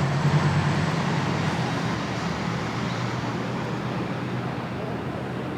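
GoldenPass Belle Époque train running on the rails: a steady rumble with a low hum, easing off slightly in level.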